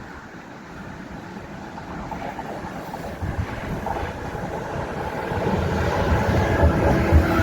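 Train approaching, its low rumble and rail noise building steadily louder.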